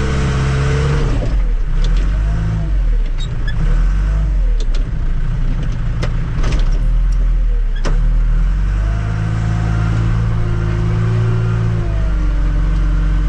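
Tractor-loader-backhoe's engine running and revving, its pitch rising and falling again and again as the machine is worked, with a few sharp knocks midway.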